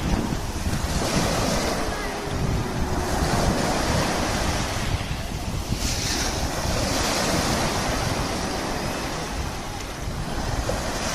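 Sea surf washing onto the shore, the hiss swelling with each wave about every four to five seconds, with wind rumbling on the microphone.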